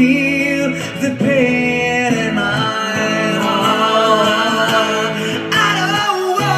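Live rock power-ballad music: a band playing under a long, wavering melody line that may be a lead vocal or guitar.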